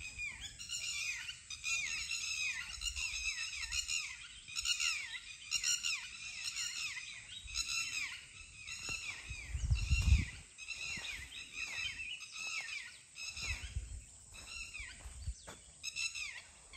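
Birds calling over and over, a run of short downward-sliding calls at about one to two a second. A low thump or rumble about ten seconds in is the loudest sound, with a weaker one a few seconds later.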